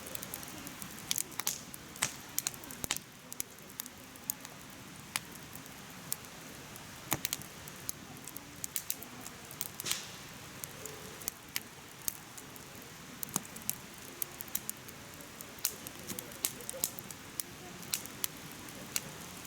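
Firewood crackling as it burns in a mesh fire pit: frequent irregular sharp pops and snaps over a steady soft hiss.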